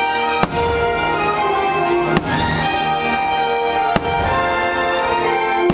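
Aerial firework shells bursting with three sharp bangs, roughly two seconds apart, over loud show music with sustained notes.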